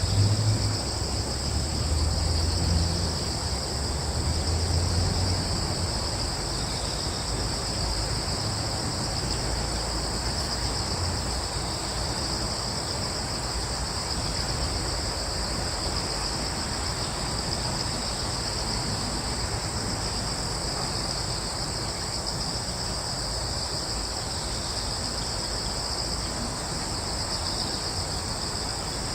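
A continuous chorus of crickets trilling steadily in two high-pitched bands. A low rumble sits under it for the first several seconds, then fades.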